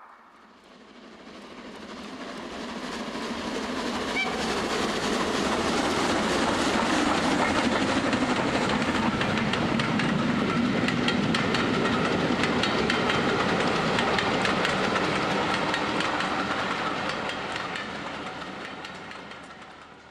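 Recorded steam train passing, played back inside a railway tunnel. It builds up from quiet over several seconds, holds loud with many rapid clicks, and fades away near the end.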